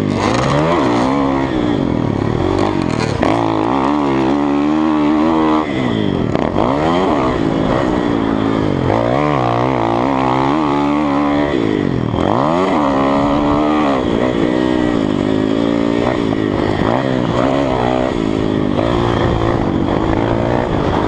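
Kawasaki KX450F dirt bike's single-cylinder four-stroke engine being ridden hard, its pitch climbing under throttle and dropping sharply again and again as the throttle is chopped and reapplied, with two deep dips about six and twelve seconds in.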